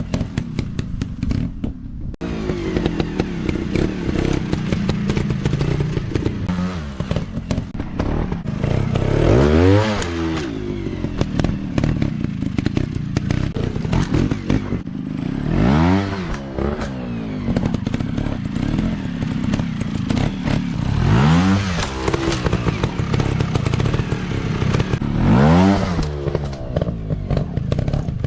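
Dirt bike engine revving in repeated bursts, its pitch rising and then falling four times, over steady engine running with a rattling clatter throughout.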